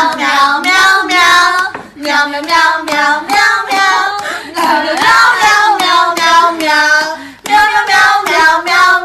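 A high-pitched voice sounding long, bending, sung notes in four phrases, with short breaks between them.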